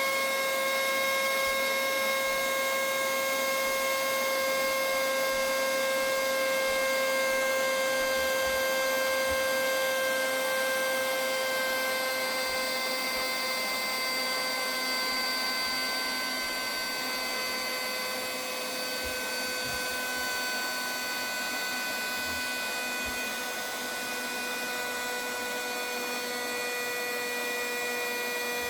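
Small cordless handheld car vacuum cleaner running continuously, a steady motor whine over the rush of air, its pitch sinking very slightly as it goes.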